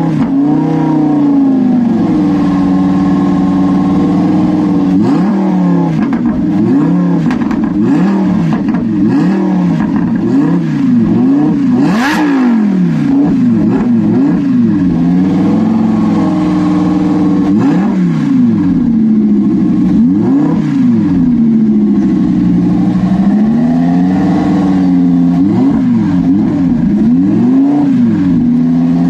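Tuned car engine revved over and over, the revs climbing and dropping back to idle many times in a row. A single sharp pop cuts through about twelve seconds in.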